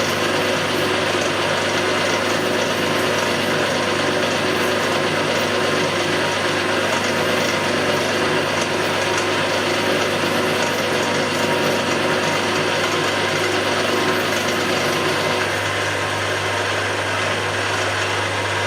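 Milling machine running steadily with its gears whining as a 7/16-inch drill is fed slowly by hand through a metal plate.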